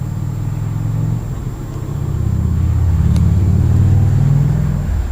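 Low mechanical rumble with a steady pitched hum, swelling about halfway through and easing near the end.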